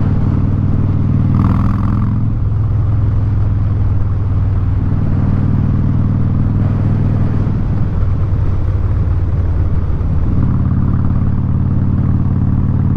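Harley-Davidson Street Bob's V-twin engine running through a Vance & Hines exhaust while riding, its note shifting a few times with throttle changes.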